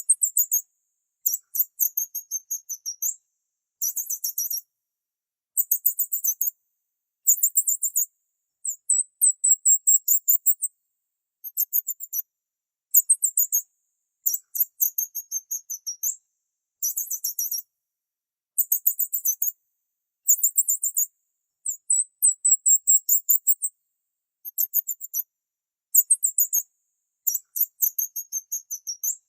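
Small bird chirping in quick, very high-pitched trills, in short phrases of about one to two seconds repeated over and over with silent gaps between.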